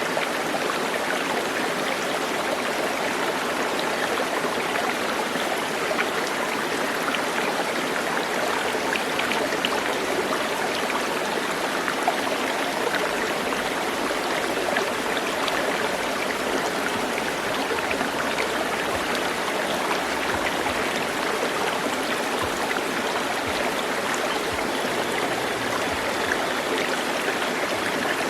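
Steady sound of flowing water, an even rushing that does not change or pause.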